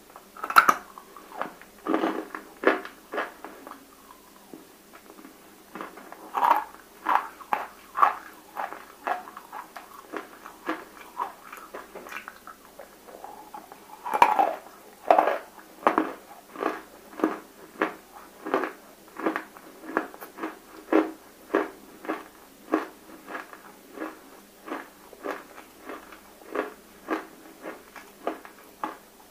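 Close-miked biting and chewing of water-soaked, fully roasted nakumatt (baked edible clay): a few sharp bites, about a second in, near six and a half seconds and near fourteen seconds, each followed by steady rhythmic chewing with a wet crunch about one and a half times a second.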